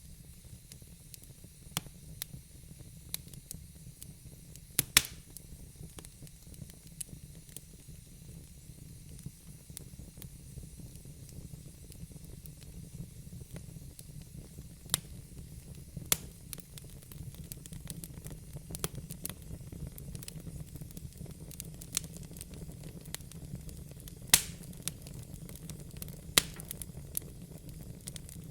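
Wood fire burning in a fireplace: a steady low rumble and soft hiss of flames with scattered sharp pops and crackles from the burning logs, two louder pops about five seconds in and near the end.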